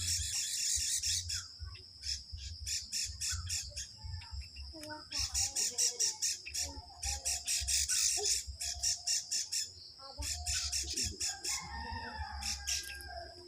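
Birds giving rapid, harsh chattering squawks in bouts of about five calls a second. The bouts break off briefly twice.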